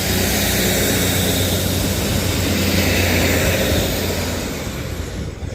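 Coupled Northern Class 150 and Class 156 diesel multiple units pulling away and passing: diesel engines running under power with a steady low hum over a broad rushing noise, easing off near the end.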